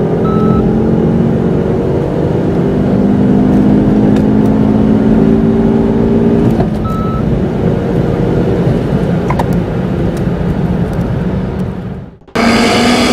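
A car engine pulling under full-throttle acceleration, its pitch climbing slowly, with a gear change about seven seconds in after which it climbs again. Near the end the sound cuts out briefly and a different engine sound takes over.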